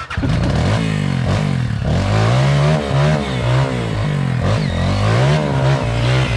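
Off-road vehicle engine revving up and down again and again, pitch rising and falling every second or so.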